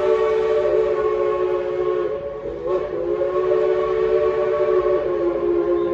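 Train whistle of engine #504 blowing long blasts: a steady chord of several tones, broken briefly about two and a half seconds in and then held again until just before the end.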